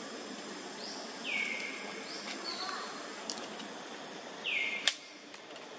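A bird calling twice, about three seconds apart: each call is a whistle that sweeps down and levels off, followed by a short higher note. A sharp click comes near the end and is the loudest sound.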